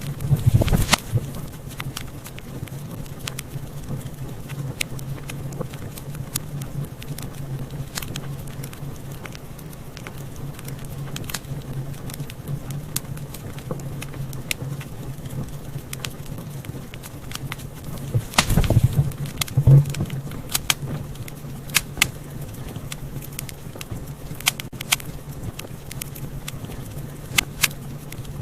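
Wood fire crackling, with sharp pops scattered throughout and clusters of louder pops just after the start and again about two-thirds of the way in, over a steady low rumble.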